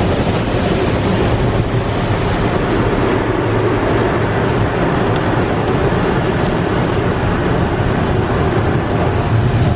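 Automatic tunnel car wash running around the car, heard from inside the cabin: a steady, even rushing of the wash equipment against the car.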